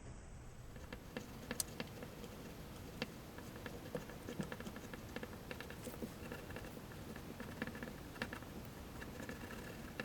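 Woodless graphite pencil scratching and tapping on paper in short, irregular strokes as fine dark lines are drawn.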